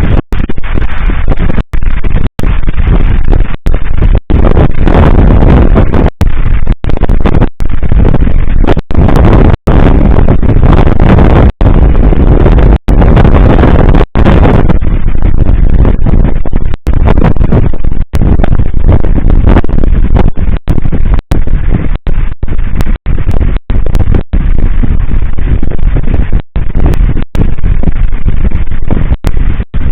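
Fireworks going off in a dense, continuous barrage, overloading the microphone into a constant distorted rumble that cuts out briefly many times.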